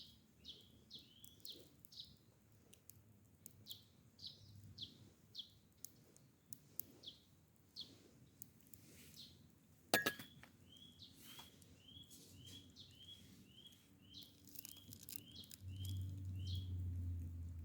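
A bird calling over and over in short, high chirps, two or three a second. A single sharp click or pop about ten seconds in, and a low rumble starting near the end.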